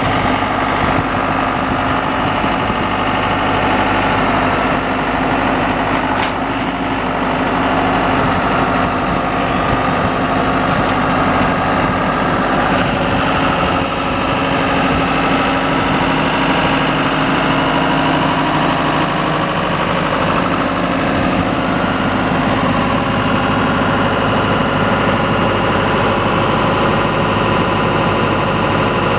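John Deere 5100E tractor's four-cylinder diesel engine running steadily.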